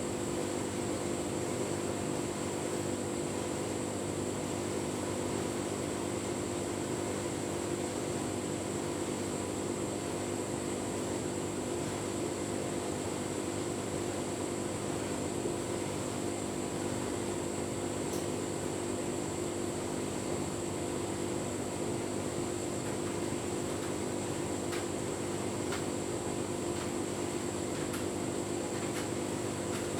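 Tumble dryer running steadily through a full load of bedding on a cottons programme: an even motor and fan hum.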